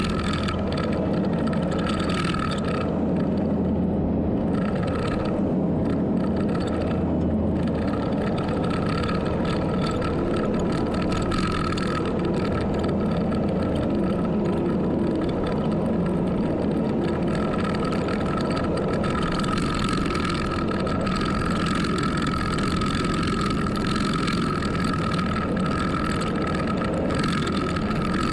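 Heavy earthmoving machine's engine running steadily, with a constant high-pitched whine over a low drone.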